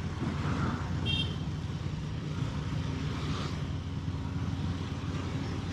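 Motorcycle engine running steadily while riding, with road and wind noise, picked up by a lapel mic inside the rider's helmet. A brief high beep sounds about a second in.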